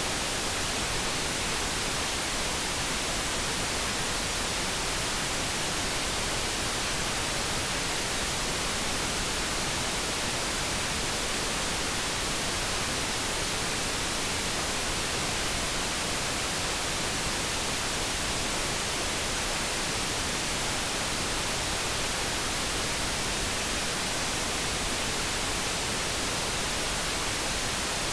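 Steady generated noise, an even hiss that does not change throughout. No kettle hum tone or other event stands out.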